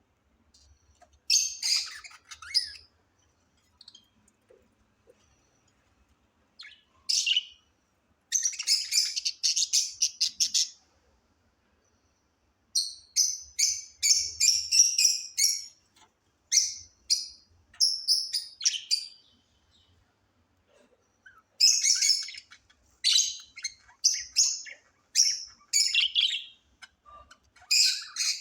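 Budgerigars chirping and chattering in quick high bursts, with short quiet gaps between the bursts and the longest run of chatter in the second half.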